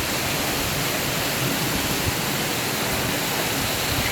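Heavy storm rain pouring steadily, an even hiss with no break.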